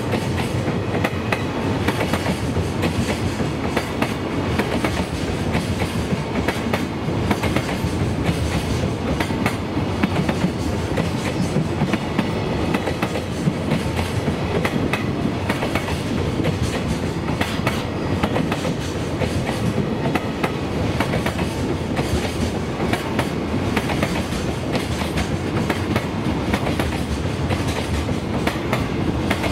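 Freight train's container flatcars rolling past at close range: a steady rumble of steel wheels on the rails with a continual clatter of clicks as the wheels cross the rail joints.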